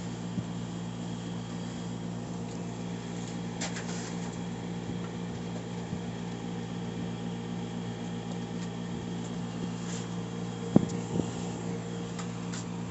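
A steady machine hum with several fixed pitches, like a fan or other shop equipment running. A few light clicks are heard, and a single sharp knock comes about eleven seconds in, followed by a smaller one.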